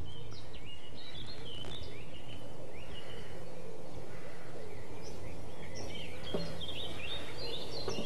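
Small birds chirping in many short, quick calls over a faint, steady background of outdoor ambience.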